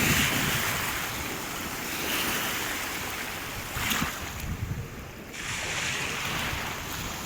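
Small sea waves washing onto the shore, each swell rising and fading about every two seconds, with wind buffeting the microphone.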